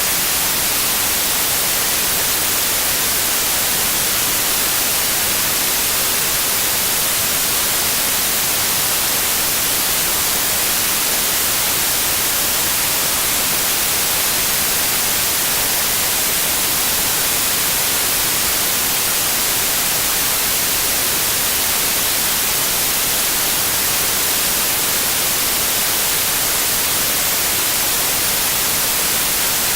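Steady white noise: an even, unbroken hiss, brightest in the high frequencies, with no change over time.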